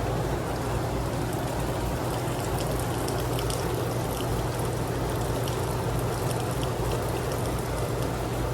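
Heavy rain falling steadily, with a constant low rumble under it and scattered drop ticks throughout.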